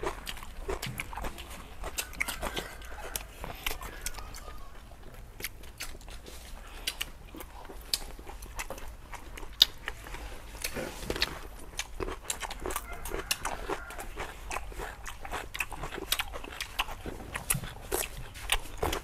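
People eating close to the microphone: chewing, biting and crunching food, with many small sharp mouth clicks and smacks and one sharper click a little before halfway.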